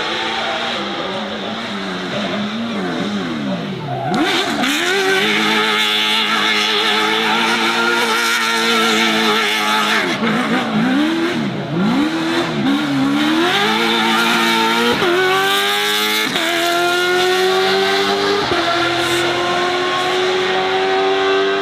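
Racing car engine revving hard. Its pitch swings up and down in quick blips, then climbs steadily as the car accelerates, dropping sharply at each upshift before climbing again.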